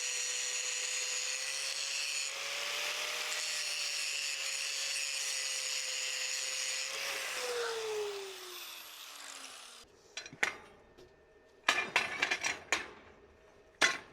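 Angle grinder working metal with a steady, high rasp, then released, its pitch falling as the disc spins down and stops. A few sharp clicks and knocks follow.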